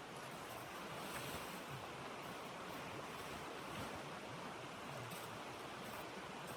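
Steady rushing of blizzard wind, even and unbroken.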